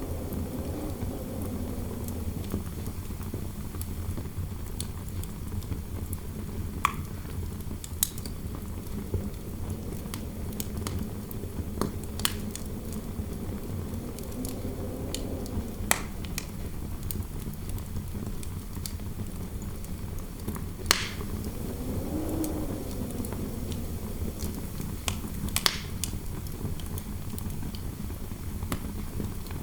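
Wood fire crackling in a fireplace, with scattered sharp pops over a low rumble, while wind howls through the room in slow rising and falling tones.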